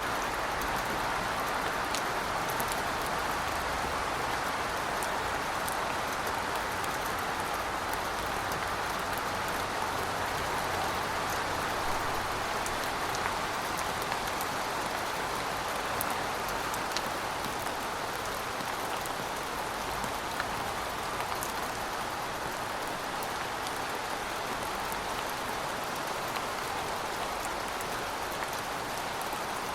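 Steady rain falling on pavement: an even hiss with scattered sharper drop ticks.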